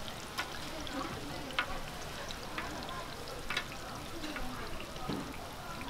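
Mung bean pancakes (bindaetteok) frying in a shallow pan of hot oil, a steady sizzle. Several sharp clicks of metal spatulas tapping against the pan and pancakes.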